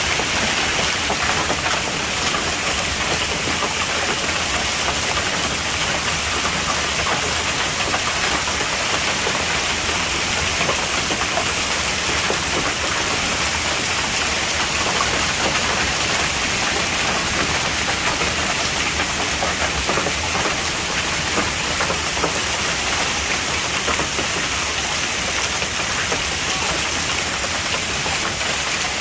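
Hailstorm: a steady, dense pelting of hailstones and rain striking hard surfaces, without letting up.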